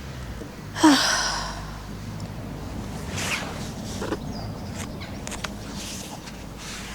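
A woman's sigh about a second in, a short falling voiced sound trailing off into breath, followed by fainter breaths and small rustles.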